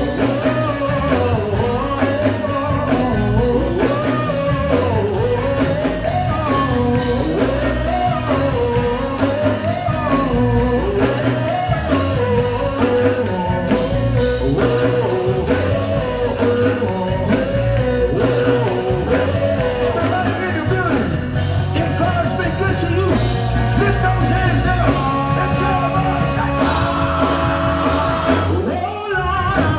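A live gospel band playing: electric guitar, bass and drums keeping a steady beat under a wavering sung or guitar melody. The band drops back briefly near the end.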